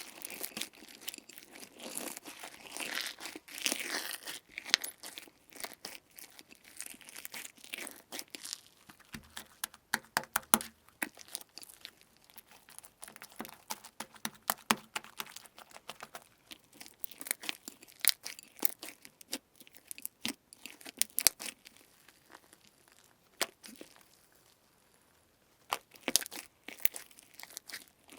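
Slime being squeezed and stretched by hand close to the microphone, with dense, irregular sticky crackling, popping and tearing sounds. It goes quieter for a few seconds near the end.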